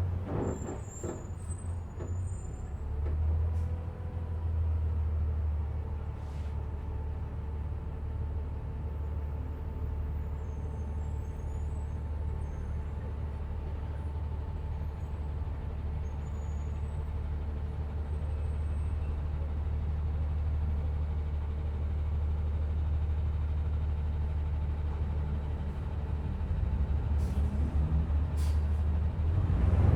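A city bus heard from inside the passenger cabin while travelling: a steady low engine drone with a faint steady whine above it. A few knocks and rattles come through, and the noise grows louder near the end.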